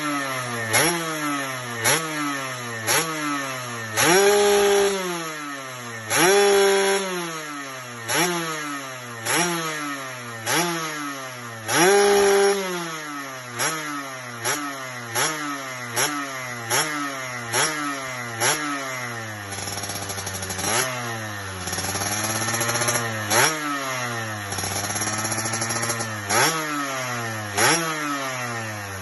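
Yamaha RX-King two-stroke single-cylinder engine revved through an aftermarket under-belly exhaust in quick repeated throttle blips, about one a second, each falling back toward idle. A few longer, louder revs come in the first half. Near the end the revs rise and fall more slowly.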